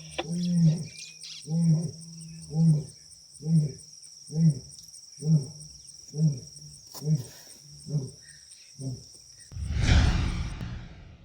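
Lion grunting: about a dozen deep, pitched grunts roughly one a second that grow fainter, the grunting series that closes a lion's roar. Crickets trill steadily over it, and a loud rushing noise burst comes near the end.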